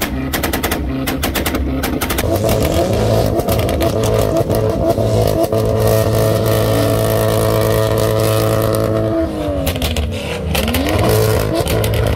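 A tuned car's exhaust crackles and pops in rapid bursts for the first couple of seconds. Then a sports car engine revs up and is held at high revs for several seconds, drops sharply near the end, and revs up again.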